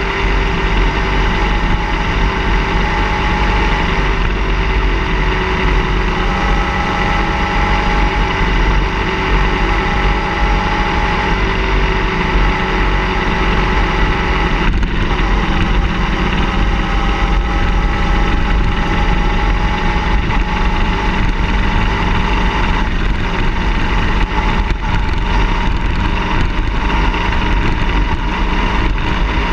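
Car engine running steadily, a constant loud drone with strong low rumble and a hum whose pitch drifts slowly up and down.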